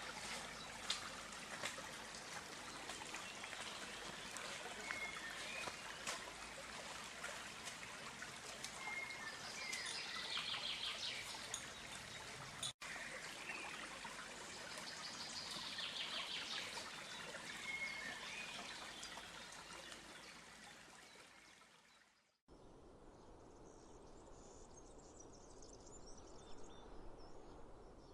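Running stream water with birds calling over it: short repeated calls and bursts of trills. The water fades out about 22 seconds in, and a fainter, quieter outdoor ambience follows.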